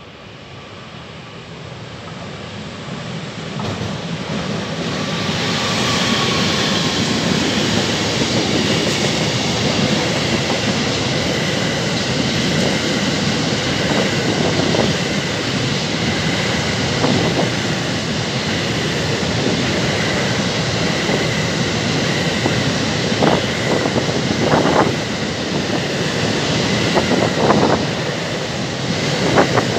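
Freight train passing through, hauled by a Bombardier Traxx E494 electric locomotive with container and tank-container wagons. The rolling noise grows louder over the first six seconds, then holds as a steady rumble of wheels on rails. Several brief clanks and wheel sounds stand out in the second half.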